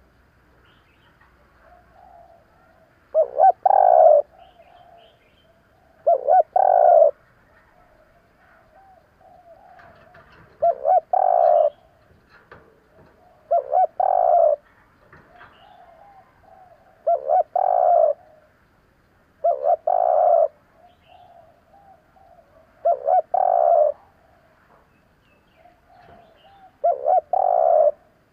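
Spotted dove (cu gáy) cooing, a decoy-style call meant to rouse wild doves: a phrase of a couple of short notes and one longer note, repeated about every three seconds, with faint softer cooing between the phrases.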